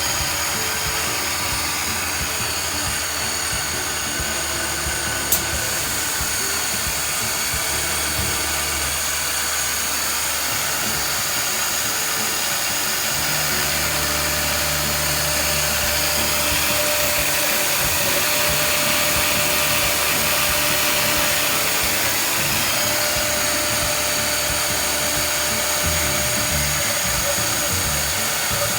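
CNC router spindle running steadily with a high whine while milling POM (acetal) plastic, with one sharp click about five seconds in.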